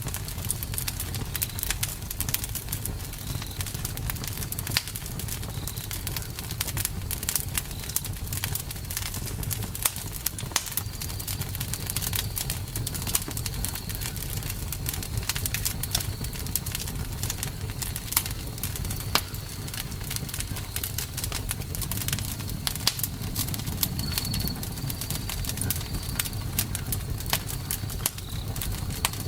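Campfire burning, the wood crackling with many sharp pops over a steady low rumble of the flames. Faint short high chirps come and go, more of them late on.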